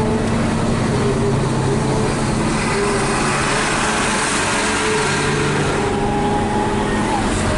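Hino 500 FM320TI truck's diesel engine running steadily while hauling a heavy wheel loader, heard inside the cab along with road noise.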